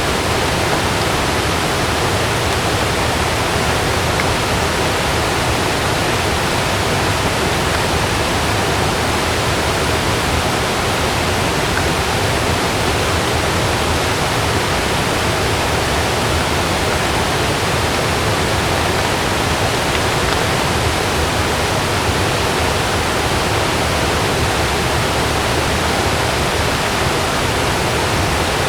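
Heavy rain falling steadily on a camping tent: a dense, even wash of sound with no thunder or gusts standing out.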